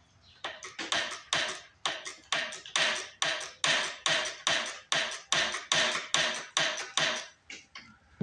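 Ratchet wrench worked in quick, even strokes, about two or three sharp clicking strokes a second, loosening a bolt.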